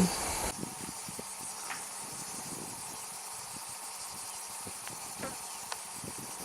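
Quiet outdoor background: a steady hiss with faint, scattered light clicks and shuffles.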